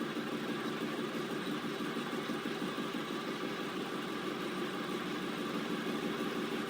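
A machine running steadily with an even hum.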